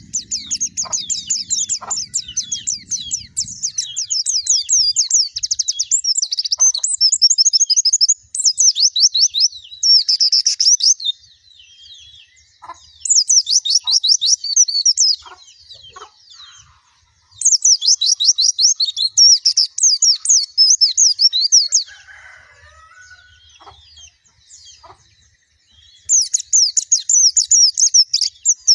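White-eye (pleci) song: long runs of rapid, high-pitched twittering in several bursts with short pauses between them.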